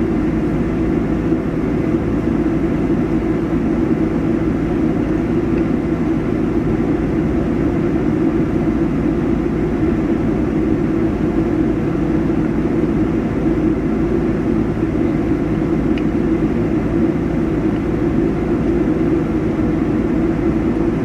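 A vehicle engine running steadily: a loud, even drone that does not change.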